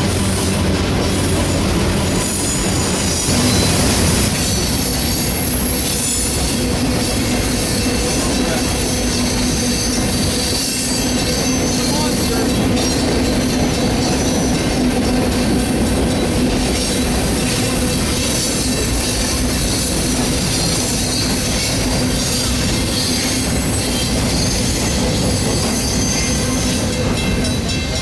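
Train passing close by, its cars rolling steadily past with a continuous noise and high-pitched wheel squeal.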